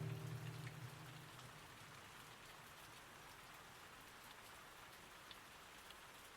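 Faint, steady rain patter: a rain-sound background with scattered light drop ticks. The last guitar chord of a song fades out in the first second or so.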